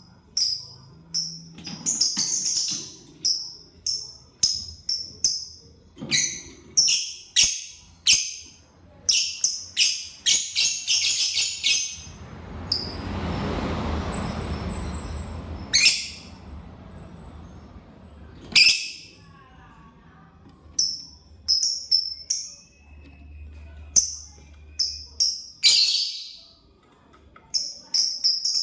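Lovebirds chirping: a rapid run of short, shrill chirps, several a second at times, with a few louder calls. A stretch of rustling, fluttering noise lasts about three seconds around the middle.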